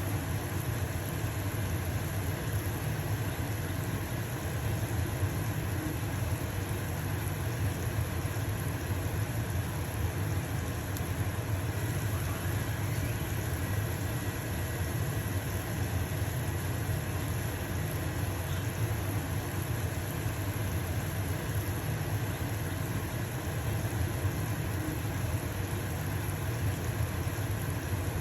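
Stove-top range hood fan running with a steady low hum, over the hiss of a pancake sizzling in a frying pan.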